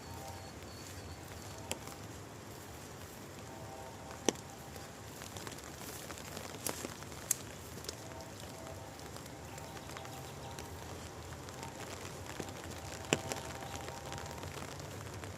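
Steady rain hiss with a few scattered sharp taps of single drops striking.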